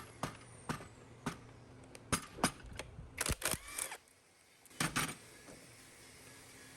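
Metal parts and hand tools clicking and knocking during the teardown of an old diesel engine: a string of sharp clicks and light knocks over the first four seconds, then a final pair about five seconds in.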